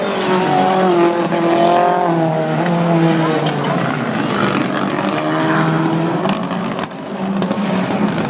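Several rallycross race cars' engines running hard on track, their pitch repeatedly climbing and dropping as they rev and change gear, with more than one car heard at once.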